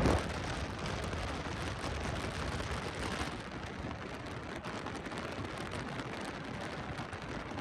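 A faint, steady rushing hiss with no clear pitch, following a louder rumble that drops away abruptly right at the start.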